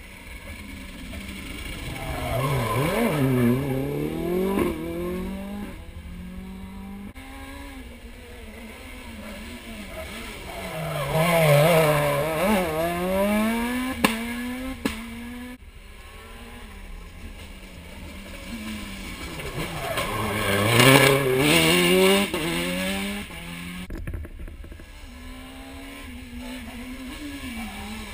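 Rally car engines revving hard and dropping through gear changes as they are driven through hairpin bends. The sound swells loud three times, about three seconds in, near the middle and about two-thirds of the way through, and stays quieter in between.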